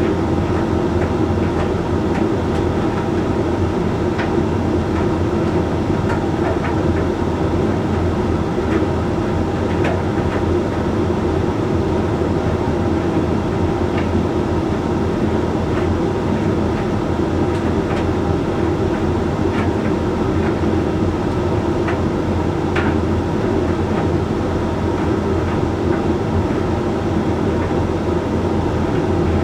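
Hoover Link X Care condenser tumble dryer running mid-cycle: a steady hum and rumble from the turning drum and fan, with faint scattered clicks.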